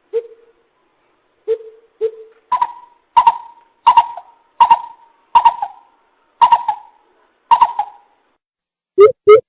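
Greater coucal hooting: a few deep single hoots, then a run of about eight higher hoots spaced under a second apart, stopping shortly before the end.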